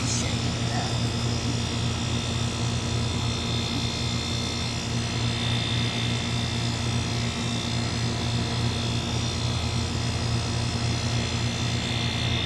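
Air conditioner running: a steady electrical hum from the compressor with fan noise over it, unchanging throughout.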